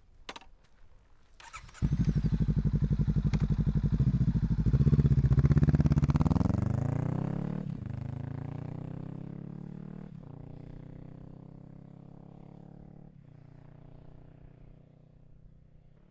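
Honda Rebel 500's parallel-twin engine running through a Falcon Double Groove exhaust with the baffle (dB killer) removed, as the motorcycle rides past. The sound comes in suddenly about two seconds in and is loudest around the middle. It then drops in pitch and fades away as the bike moves off.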